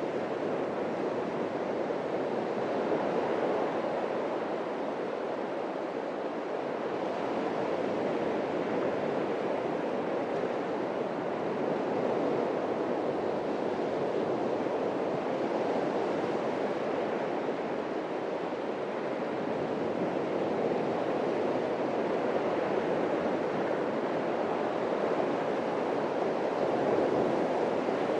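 Atlantic surf breaking and washing on a beach: a steady rushing wash that swells and eases gently every several seconds, with no single loud crash.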